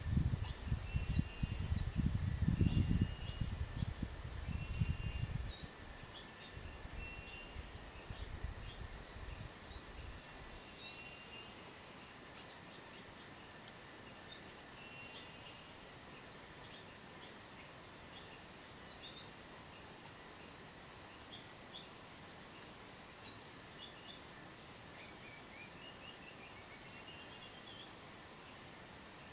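High-pitched chirps and short trills of a kolibri wulung sunbird, repeated in quick phrases: a recorded lure call played from an MP3 player to draw the bird in. A loud low rumble runs under the calls for the first few seconds, then dies away.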